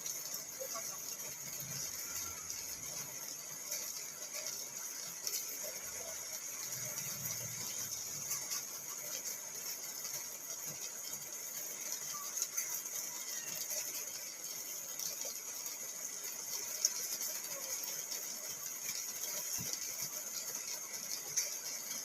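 Rain pattering on a car's roof and windows, heard from inside the cabin: a steady hiss dotted with small drop ticks, with a few louder taps.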